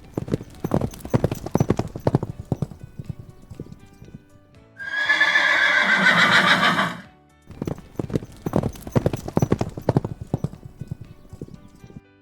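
Horse hooves clip-clopping in a quick run of beats, broken about five seconds in by a loud neigh of about two seconds whose pitch wavers and falls, then more hoofbeats.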